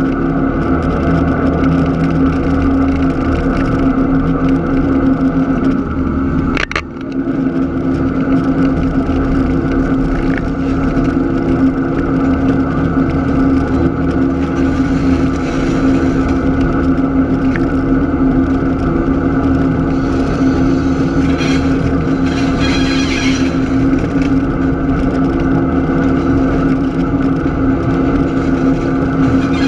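Diesel switcher locomotive engine running at a steady speed, with a brief break in the sound about seven seconds in.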